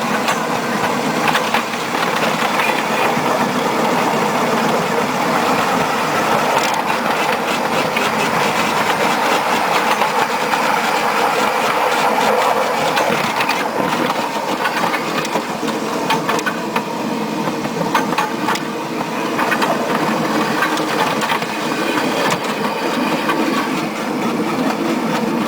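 A 15-inch-gauge backyard electric tram running along its track, its 48-volt DC motors (converted electric lawnmower motors) humming steadily while the wheels click over the rails.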